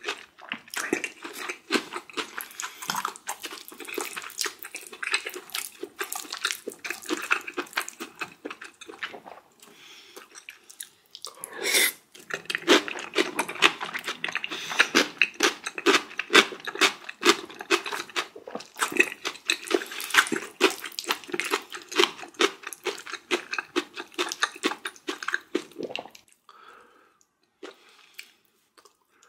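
Close-miked wet chewing and mouth sounds of a person eating, a rapid run of sticky smacks and clicks. There is a louder swell about twelve seconds in, and the sounds thin out and grow quieter near the end.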